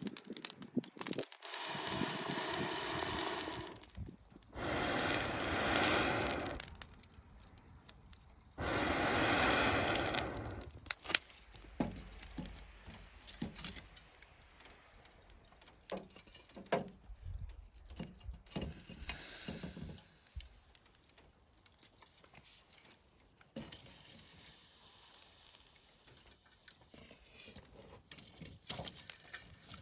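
Wood fire crackling and popping, with three loud bursts of rushing air noise, each a couple of seconds long, in the first half.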